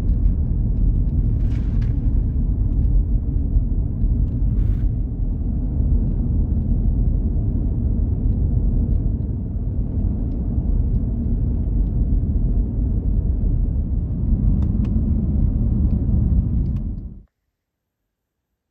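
Strong wind buffeting the microphone: a loud, steady low rumble that stops abruptly near the end.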